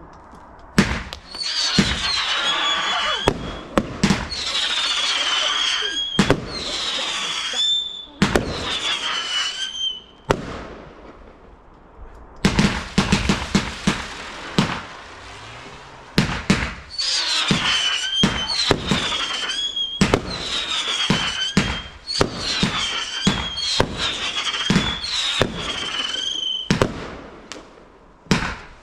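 Whistling fireworks firing in sequence: each shot goes off with a sharp bang and a shrill whistle that dips slightly in pitch over about a second, one every second or two. Partway through comes a short run of rapid bangs with no whistle.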